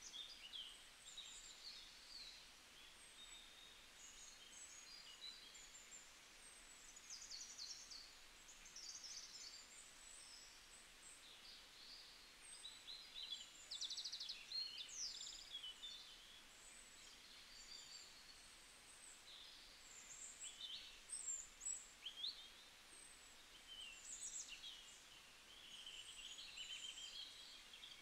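Faint chirping and twittering of small birds, short high calls and quick trills coming one after another.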